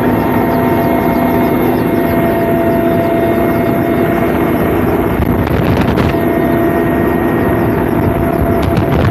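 A loud, steady engine drone with a constant hum and no change in pitch.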